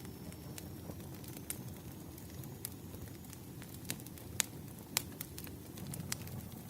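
Firewood crackling: irregular sharp pops and snaps, a few of them louder, over a low steady rumble.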